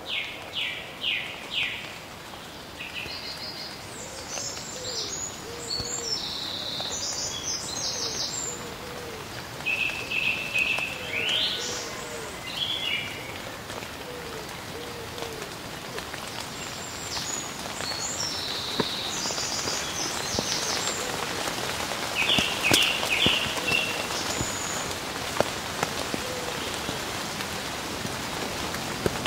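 Steady rain falling, with birds calling over it in short runs of chirps and, in the first half, a repeated low call.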